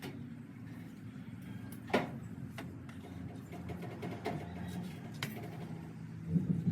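A steady low mechanical hum with a few sharp clicks or knocks, the loudest about two seconds in.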